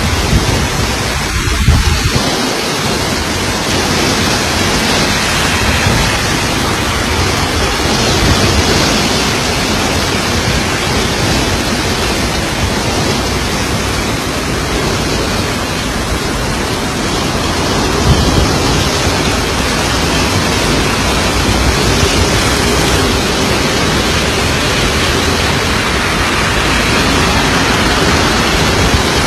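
Torrential rainstorm downpour: heavy rain pouring down as a dense, steady hiss.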